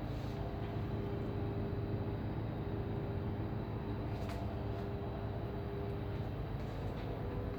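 Ship's engines and machinery running with a steady low drone and a constant hum.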